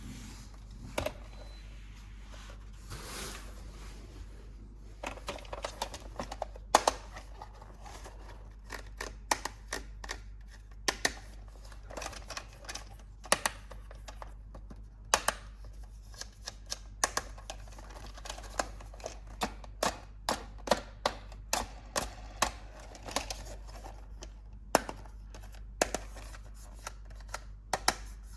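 Irregular sharp clicks and taps from handling toys and their packaging during an unboxing, with a brief rustle about three seconds in, over a steady low hum.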